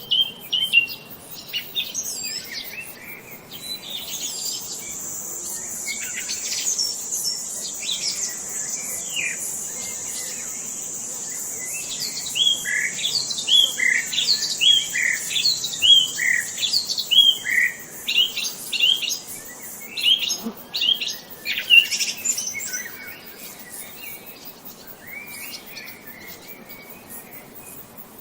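Songbirds chirping and trilling in quick, repeated short notes, busiest in the middle, with a steady high-pitched hiss or buzz underneath from about four seconds in until about twenty seconds.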